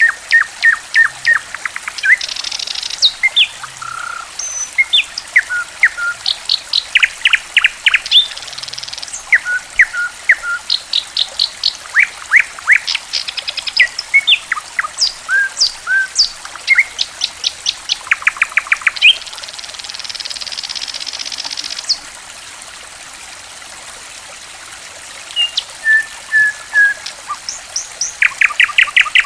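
Songbirds chirping and calling in quick series of sharp notes and short trills, over a steady trickle of running water. For a few seconds in the latter half the calls stop and only the water is heard.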